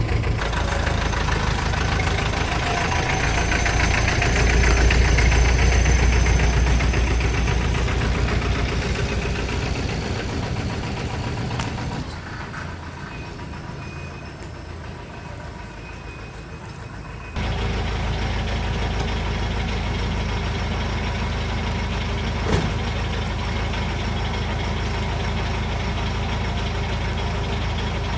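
A vehicle engine running steadily, swelling for a few seconds early on. It drops to a quieter stretch about twelve seconds in and comes back abruptly about seventeen seconds in.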